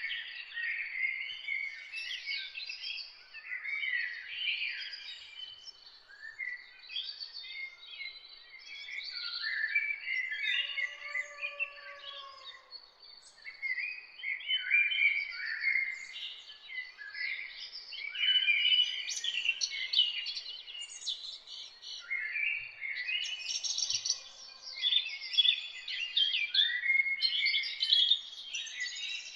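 Several songbirds singing and chirping at once, a dense chorus of overlapping short high calls and trills that never stops. Two lower, drawn-out calls stand out briefly about eleven seconds in.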